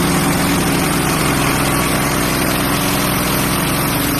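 Hudson Patriot band sawmill's engine running steadily at an even pitch.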